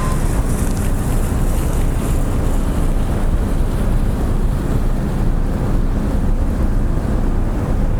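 Steady wind noise buffeting the microphone of a bike-mounted action camera while riding, a loud deep rumble with no breaks.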